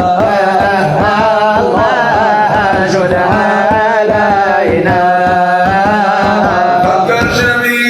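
Arabic devotional song (nasheed): a voice singing long, wavering melodic lines over a steady drone and a fast, regular hand-drum beat.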